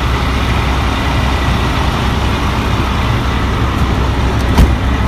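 Steady motor-vehicle road noise: a low rumble under a wash of hiss. One sharp knock comes about four and a half seconds in.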